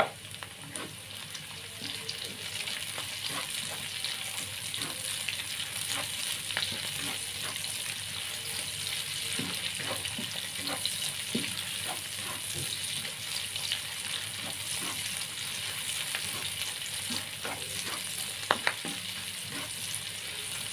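Chopped red chillies, garlic and shallots sizzling in hot oil in a pan as they are stir-fried. The steady hiss of the oil carries scattered clicks of the utensil against the pan, with a sharper knock right at the start and another near the end.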